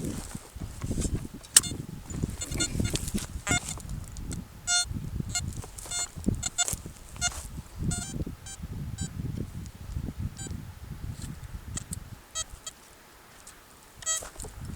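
Metal detector beeps: short, repeated high tones, coming several times a second at times, over dull low thumps and scraping of soil being dug to recover a target.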